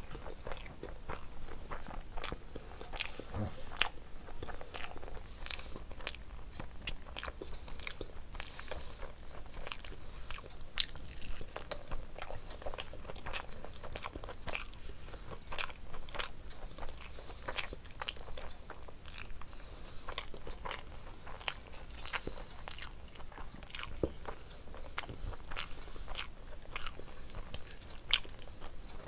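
Close-miked eating: wet chewing with many short, irregular mouth clicks and smacks as mouthfuls of egg curry and rice are eaten by hand.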